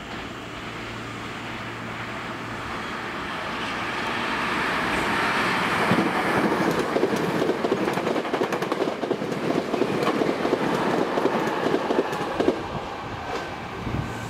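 Hankyu limited express electric train approaching and passing at speed. The sound grows over about six seconds, then turns into a rapid clatter of wheels on the rails lasting about seven seconds, and eases off near the end.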